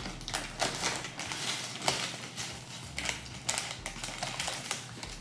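A run of light, irregular clicks and taps, several a second.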